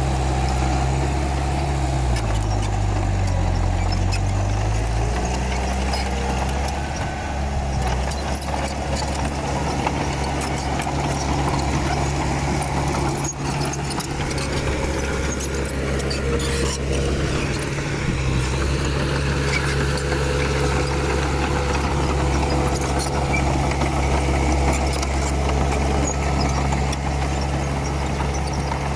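Komatsu D31P crawler bulldozer's diesel engine running steadily, its pitch dipping a couple of seconds in and recovering about two seconds later, with scattered clicks and clanks over it.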